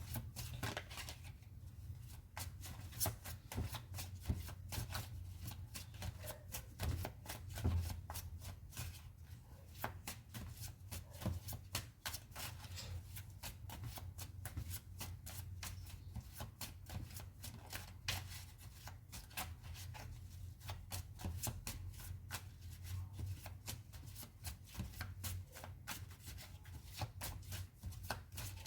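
Tarot cards being shuffled by hand, a continuous run of quick riffling clicks and card-on-card rustle.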